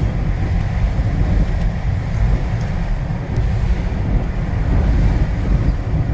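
Strong wind gusts buffeting the microphone: a loud, uneven low rumble that swells and dips.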